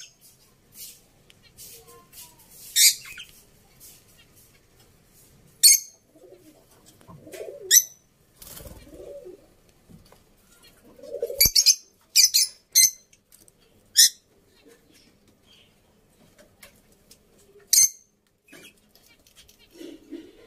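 Birds calling: short, sharp high chirps every second or few seconds, with a few lower calls in the middle.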